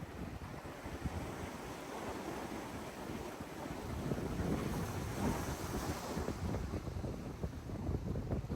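Pacific Ocean surf washing in, mixed with wind buffeting the microphone; the surf swells about four seconds in.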